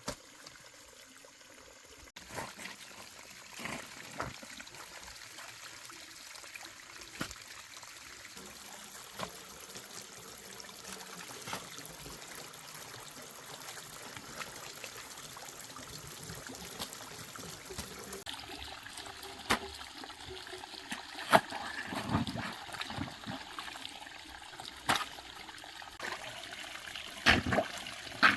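Water trickling steadily, with scattered sharp knocks or splashes that come more often and louder in the last third.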